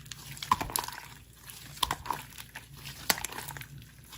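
Slime being pressed and squished by hand, giving scattered small wet clicks and crackles.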